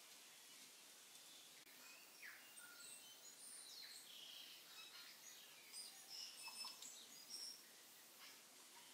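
Faint bird chirps and calls over a quiet background hiss, coming thickest from about two seconds in until near the end.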